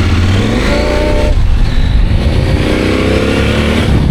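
CFMOTO 800MT's parallel-twin engine accelerating through the gears: the revs climb, drop at an upshift about a second in, then climb again before another shift near the end.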